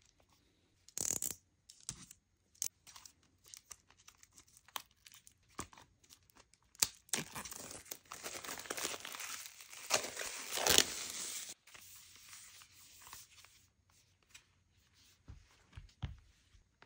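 Plastic shrink-wrap being torn and peeled off a CD album box: scattered crackles at first, then dense crinkling and tearing from about seven to eleven seconds in, then a few more crackles as the box is handled.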